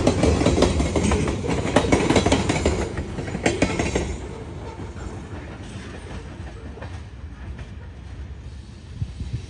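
Covered hopper cars of a freight train rolling past, with wheels clattering and clicking over the rail joints. About four seconds in the sound drops off sharply as the last car passes, and it goes on as a quieter rumble as the train draws away.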